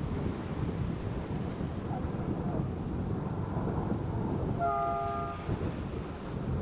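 Wind buffeting the microphone with a steady low rumble. About five seconds in comes a short chord-like horn blast of under a second, a train horn.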